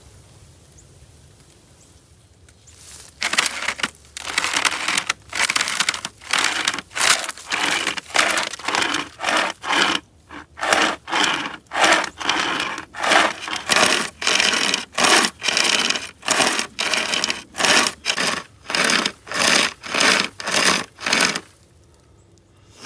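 SOG pocket chainsaw, a hand-pulled chain with cutting teeth, sawing back and forth through a 3-to-4-inch tree limb. It makes a long run of rasping strokes, close to two a second, starting about three seconds in and stopping shortly before the end.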